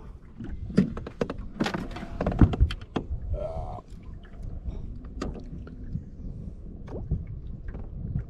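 Irregular knocks and thunks against a small fishing boat, densest in the first three seconds, over a low wind rumble on the microphone.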